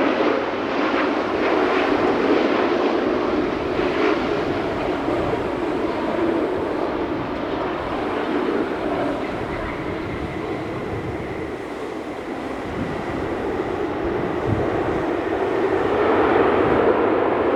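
Jet airliner engine noise: a steady rushing roar that eases a little midway, with a faint high whine coming in, then swells again near the end.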